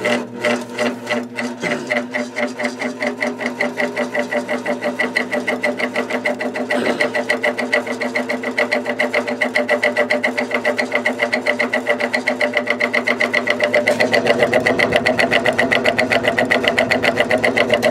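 Box fan's PSC motor running with a loud, pulsing cyclic hum that comes faster and grows louder as it goes on. The rotor is out of round; the bearing and felt washers are in good shape.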